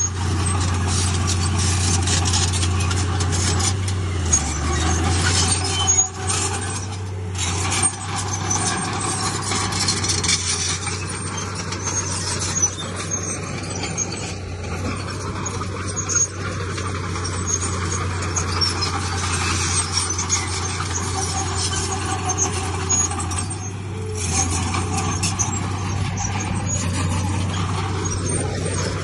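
Heavy diesel earthmoving machinery running steadily, a low engine drone with a few clanks and knocks over it.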